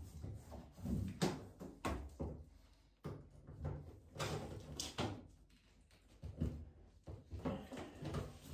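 A string of irregular knocks and clunks, about a dozen, from parts of a washing machine being handled and struck while it is taken apart for a drum bearing replacement.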